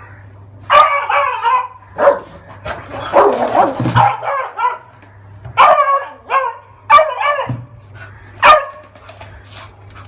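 Dogs barking and yipping in about six loud, rough bursts with short pauses between, as in a scuffle between dogs.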